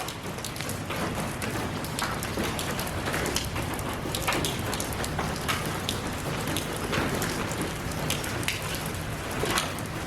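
Steady rain falling, with many individual drops ticking sharply on a surface over an even hiss of rainfall.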